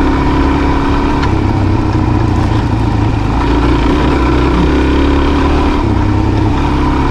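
Dual-sport motorcycle engine running steadily under load while riding a dirt trail, its note shifting a little along the way.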